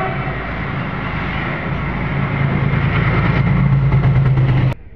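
Running noise of an express train at speed, heard from an open doorway: wheels on rail and rushing air, with a low drone that swells slightly. It cuts off suddenly just before the end.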